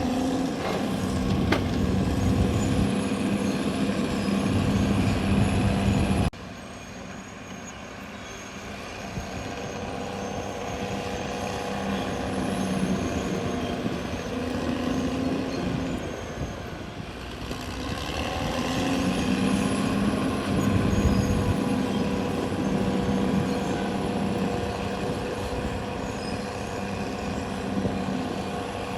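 Caterpillar D6R XL bulldozer's diesel engine running steadily at work. About six seconds in it drops suddenly quieter, and from about eighteen seconds it swells back up to full level.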